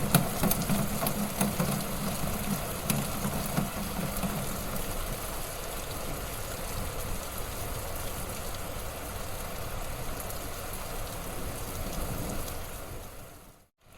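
Wood fire in a fireplace crackling and hissing, with sharp pops in the first few seconds. The sound fades out briefly near the end and comes straight back.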